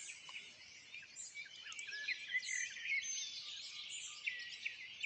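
Dawn chorus of several songbirds singing at once, nightingales among them: many overlapping whistles and chirps.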